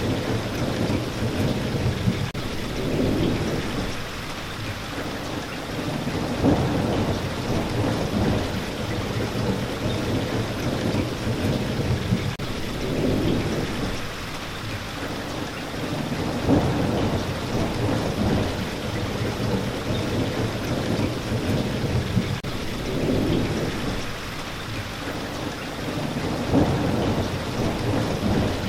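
Steady heavy rainfall, with thunder rumbling and swelling up several times.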